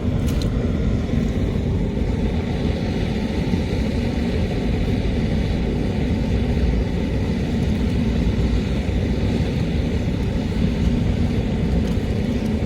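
Steady low rumbling background noise, with one short knock just after the start.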